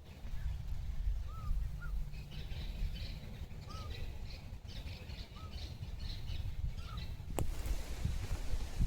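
Australian magpies and butcherbirds calling, with short whistled notes repeated every second or so over a run of higher chattering notes. One sharp click near the end.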